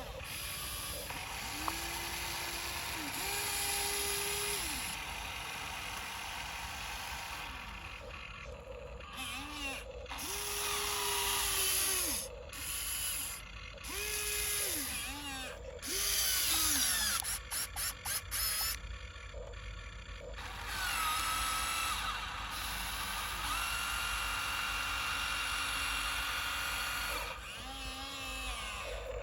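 Electric drive motor and gearbox of a radio-controlled dump truck whining, the pitch rising, holding and dropping in short surges as the throttle is worked, with louder mechanical stretches in the middle.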